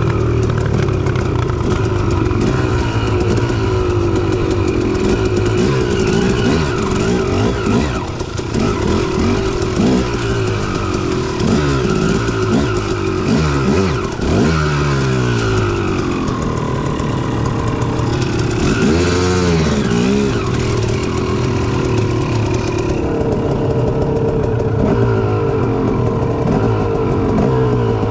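Dirt bike engine running under load while being ridden, its pitch climbing and dropping again and again as the throttle is worked.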